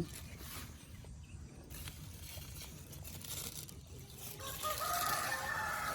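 A rooster crows once: one long held call starting about four and a half seconds in.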